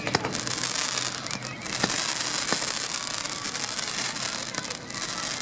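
Fireworks crackling in a dense, continuous shower, with a few sharp bangs scattered through it.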